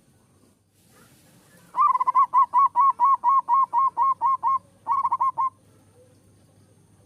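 A zebra dove (perkutut) singing: about two seconds in, a run of about a dozen quick, evenly spaced, clipped cooing notes, followed after a brief gap by a shorter, faster run of about five notes.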